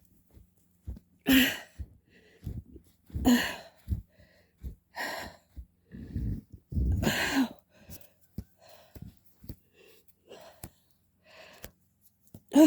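A woman breathing hard and gasping from exertion, with heavy breaths roughly every two seconds. She is struggling to get up out of deep snow.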